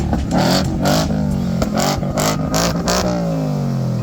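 A car engine being revved while stationary: a quick climb in revs just after the start and again about a second in, then the revs falling away slowly.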